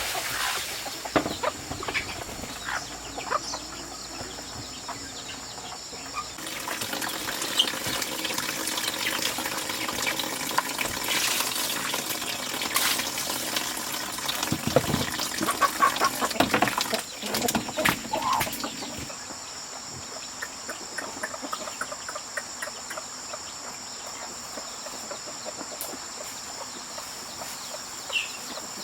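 Chickens clucking, over a steady high-pitched insect drone. There is a busier stretch of rustling and clicking noises in the middle.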